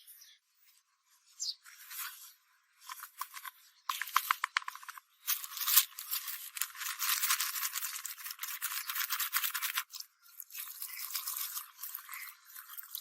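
Fast scratchy rasping in stop-start stretches, like abrasive work on a surface (sanding, brushing or filing), with all the low end filtered out.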